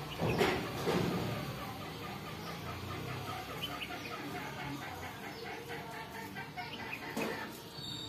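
Bird calls: two loud, harsh calls about half a second and a second in, then a fast run of short repeated notes, about five a second, with another sharp call near the end.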